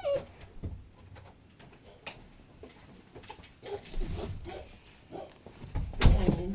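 A puppy's short falling whimper at the start, then scattered rustling and knocking noises, with a louder burst of noise about six seconds in.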